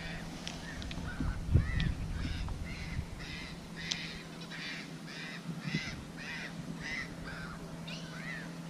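A bird calling over and over, about two calls a second, with a low thump about one and a half seconds in.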